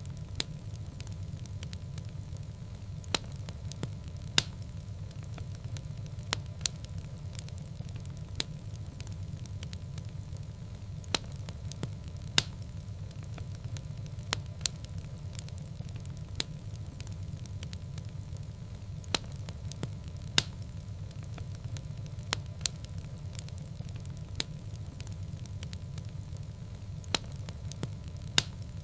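Wood fire burning in a fireplace: irregular sharp crackles and pops every second or two over a steady low rumble.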